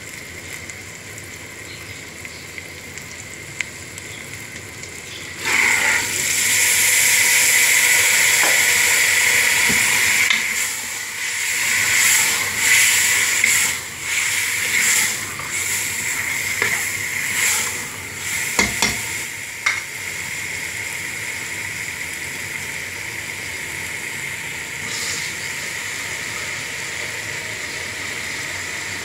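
Black chickpeas, soaked overnight, tipped into hot oil and onion-tomato masala in a pressure cooker: a loud sizzle starts suddenly about five seconds in, then swells and ebbs as a spoon stirs and knocks against the metal pot. It then settles to a steady, softer sizzle.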